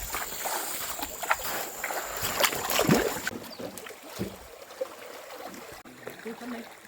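Water splashing and sloshing around a small boat on a river, with scattered knocks. There is one louder splash or knock about three seconds in. A steady high-pitched hiss runs underneath and stops just after it.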